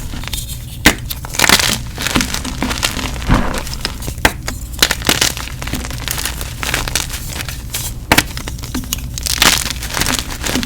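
Gym chalk being crushed and crumbled close to the microphone: repeated sharp crunches and cracks with gritty crumbling between them.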